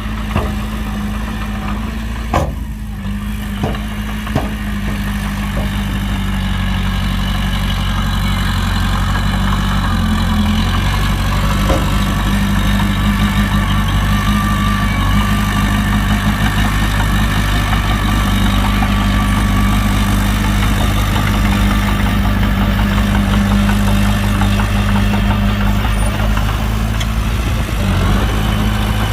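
Heavy diesel engine of earth-moving equipment running steadily at low revs, a deep hum, with a few sharp knocks in the first few seconds.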